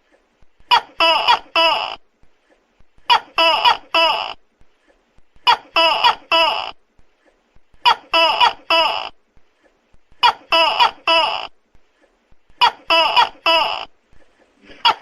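Tokay gecko calling loudly: short bursts of three clipped, barking "to-kek" notes, repeated about every two and a half seconds, six times.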